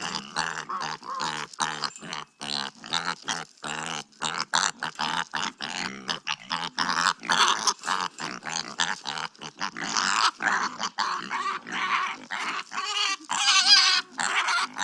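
Recording of a pig making a quick series of short grunts, rising to higher, brighter calls near the end.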